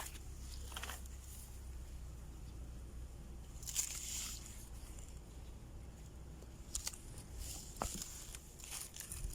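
A bird pecking at an overripe banana: scattered soft taps and squishy rustles, the loudest about four seconds in, over a low steady rumble.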